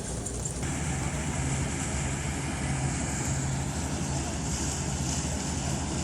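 Motorcycle engine running steadily on the move, with a low hum and wind rushing past the microphone.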